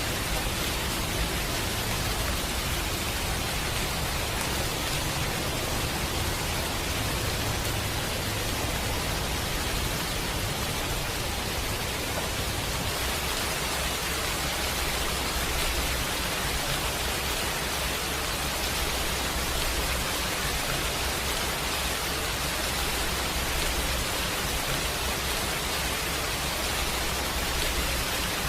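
Steady rain falling, a dense, even hiss that holds the same level throughout, with a low rumble underneath.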